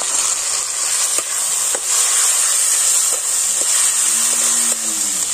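Prawn, parwal-seed and ginger-garlic-chilli paste sizzling steadily as it hits hot mustard oil and fried onions in an aluminium kadai, with a few light clicks as it is stirred with a metal spatula.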